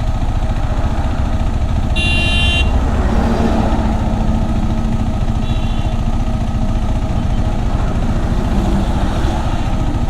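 KTM 390 Adventure's single-cylinder engine running on the move, with wind noise throughout. A high-pitched horn honks briefly about two seconds in, and a shorter, fainter toot comes near six seconds.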